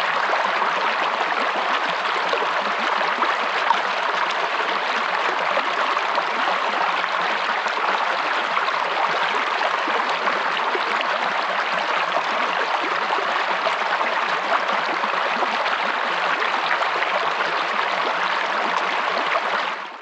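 River water running over stones, a steady rushing and babbling that fades out at the very end.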